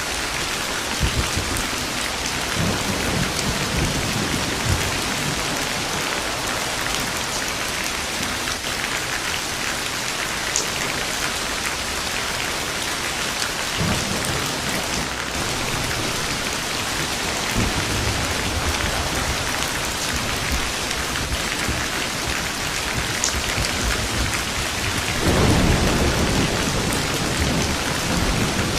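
Steady heavy rain falling, with low rolls of thunder rumbling several times, the loudest about 25 seconds in.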